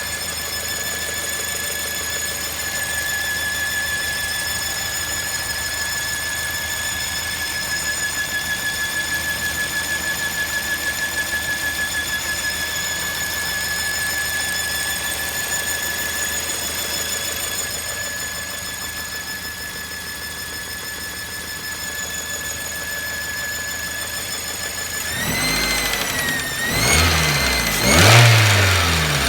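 Mazda 3 1.6 engine running with a steady high-pitched whistle from under the hood, which the owner traced to a failing water pump after new idler rollers, alternator bearings and belt did not cure it. About 25 s in the engine is revved a few times, and the whistle rises and falls with the revs, loudest near the end.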